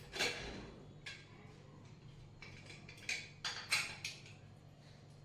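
Scattered clinks and clatter of dishes and utensils, with a quick run of sharp knocks a little past the middle, over a low steady hum.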